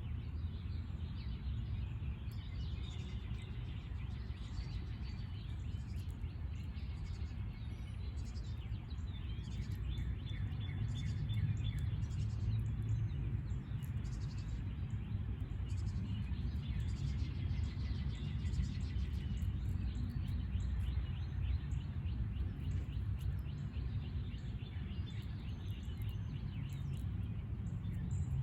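Small birds chirping in quick trilled runs that come and go every few seconds, over a steady low rumble of background noise.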